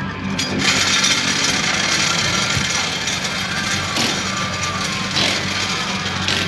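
A car engine running steadily, a raspy, buzzing sound over a constant low hum.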